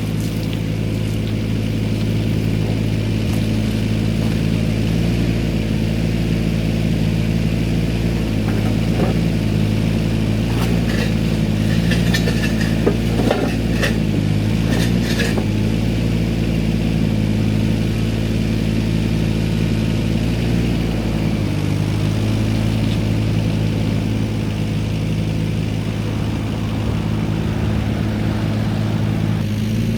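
Tractor engine running steadily at a constant speed, with a few knocks and rattles of metal about halfway through.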